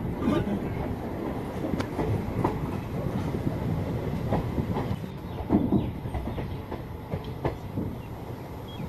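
Passenger train running along the track, a steady rumble with wheels knocking over rail joints and the coach rattling irregularly, the loudest knock about five and a half seconds in.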